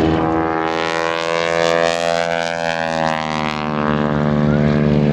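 Propeller airplane flying past, its engine drone steady in pitch while its tone sweeps and phases as the plane passes overhead.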